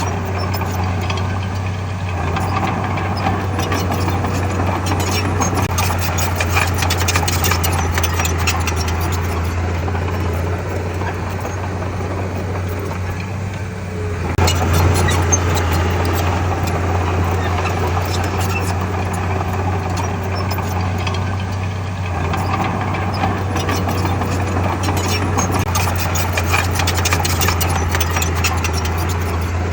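Heavy diesel engine of earthmoving machinery, a bulldozer or dump truck, running steadily under work, with a brief dip then a louder surge about halfway through. Stretches of rattling and clanking run over the engine sound.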